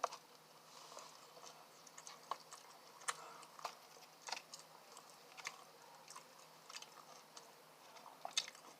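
Faint close-up chewing of fast food, with irregular soft mouth clicks.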